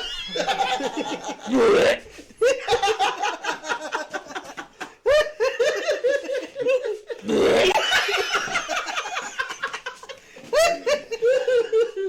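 People laughing hard in long bouts of quick, repeated pulses, breaking off briefly a few times.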